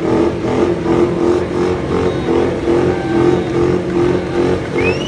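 Ford Mustang's engine held at high revs, a loud, sustained note that wavers slightly. A shrill whistle rises in just before the end.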